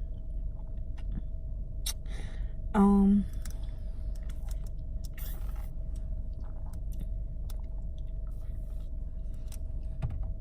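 Steady low hum inside a car cabin, with small scattered clicks and one short voiced 'mm' about three seconds in.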